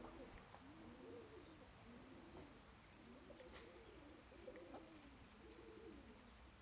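Faint, low bird calls: a soft rising-and-falling call repeated over and over in a steady run, about one every half second or so.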